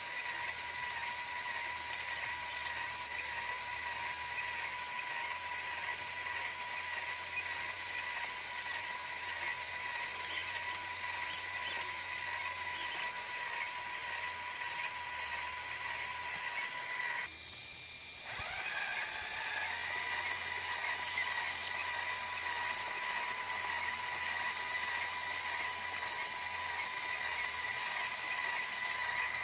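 Electric motor and gears of a radio-controlled scale truck whining at a steady pitch. It breaks off for about a second some seventeen seconds in, then rises back to the same pitch.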